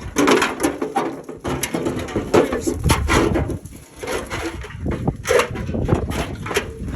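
Old truck's sheet-metal fender creaking, scraping and knocking in irregular bursts as it is worked loose.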